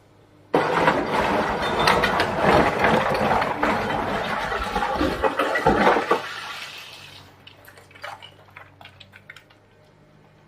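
A load of earth and rock pours out of an excavator bucket. The sound starts suddenly, rushes and rattles for about six seconds, then trails off into a few scattered falling stones. A steady low hum from the Komatsu PC350LC excavator's diesel engine runs underneath.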